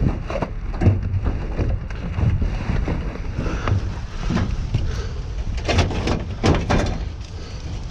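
Wind buffeting the microphone, with a string of crackles and knocks from brittle debris being shifted and stepped on in a dumpster.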